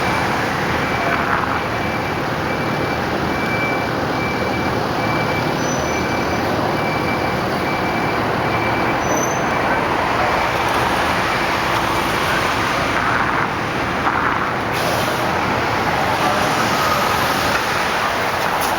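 A fire engine's diesel engine running, mixed with street traffic noise. A high, regular beeping repeats for the first eleven seconds or so.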